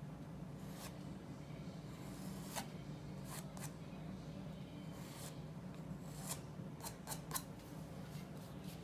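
Oil-paint brush strokes on gesso-primed paper: about ten short, irregular brushing strokes over a steady low hum.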